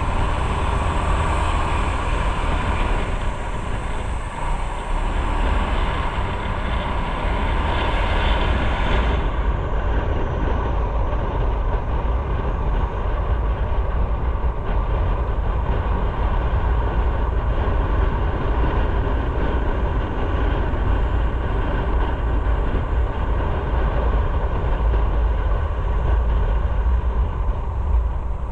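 Motorcycle on the move: steady wind rush over the microphone with engine and road noise underneath. The high hiss thins out about nine seconds in.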